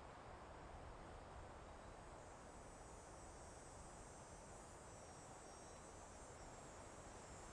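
Soft, steady wind through a forest, faint, with a high thin insect trilling joining in about three seconds in.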